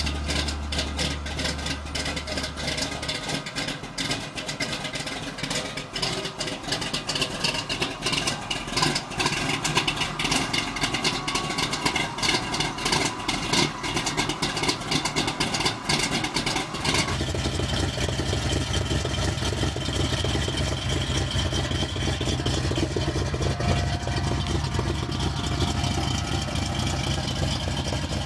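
1969 Chevrolet El Camino's engine and exhaust running after the muffler shop work. At first it sounds uneven and busy, then it changes abruptly about two-thirds of the way through to a steady low idle.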